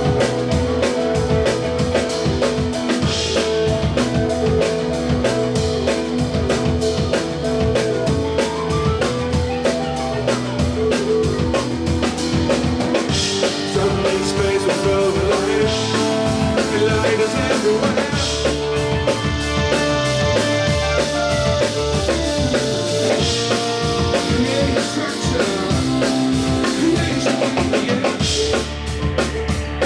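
Live band playing an instrumental piece, driven by a drum kit with bass drum under sustained pitched notes, with loud accents every few seconds.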